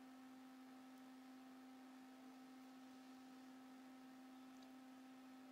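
Near silence with a faint steady hum: one low constant tone with fainter higher tones above it.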